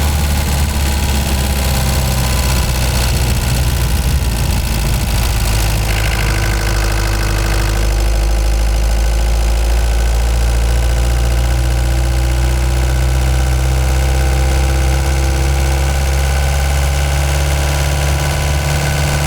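Ford Transit Mk5 van's engine running steadily at low revs, its pitch shifting only slightly.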